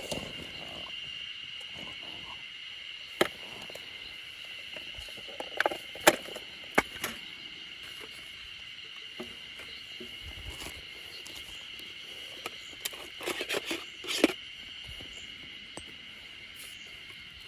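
Steady high-pitched insect drone, with scattered sharp clicks and knocks of things being handled, the loudest about 6 seconds in and a cluster around 13 to 14 seconds.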